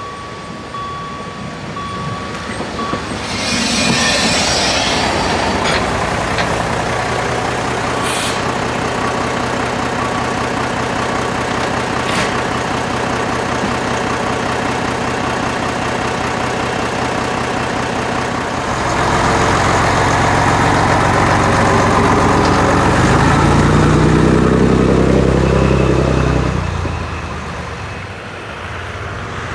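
A narrow-gauge train running by with a steady mechanical rumble and a fine regular beat. There is a burst of hiss about four seconds in. The sound swells loudest in the second half, where its pitch falls, then eases off near the end.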